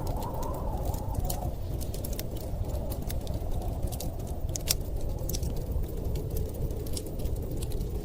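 Wood fire crackling, with irregular sharp pops and ticks, over a steady low rush of storm wind.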